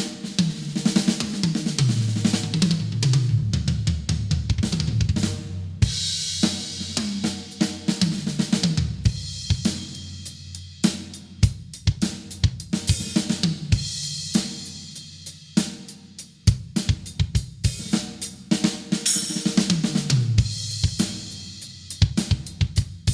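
Acoustic drum kit played with bass drum, snare and hi-hat, with cymbal crashes. Fills run down the toms from high to low near the start and again near the end, and a cymbal crash comes in about six seconds in.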